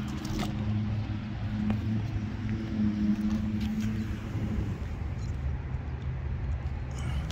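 Suzuki cruiser's V-twin engine idling steadily, a low even rumble, with a sharp click shortly after the start.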